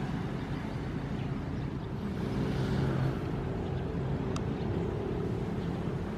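Ocean waves washing over a steady low rumble, with one swell of surf rising and fading about halfway through.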